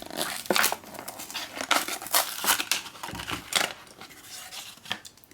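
A Hot Wheels blister-card package being opened by hand: an irregular run of sharp crinkles, clicks and scrapes of plastic blister and cardboard.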